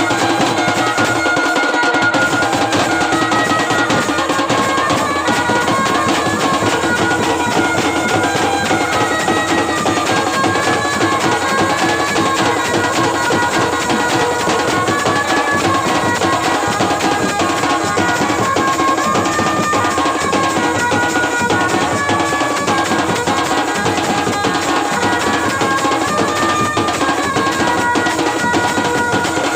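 Loud Indian wedding music: drums with a high stepping melody over a steady held note, playing on without a break.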